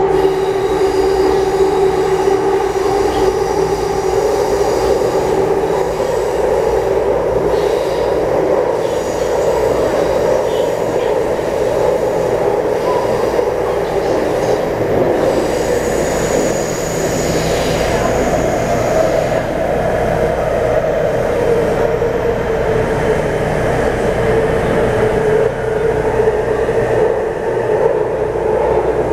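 Taipei Metro C301 train with a retrofitted propulsion system running between stations: a steady loud rumble of wheels and drive, its main tone shifting slightly in pitch, with a thin high tone for a few seconds in the middle.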